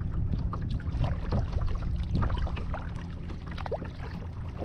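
Kayak paddle strokes in the water, with drips and small splashes scattered through, over a steady low rumble.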